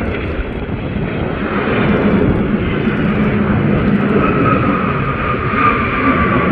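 Jet airliner engines on a landing approach, a loud steady rush of engine noise with a whine that comes in about two-thirds of the way through and slowly falls in pitch.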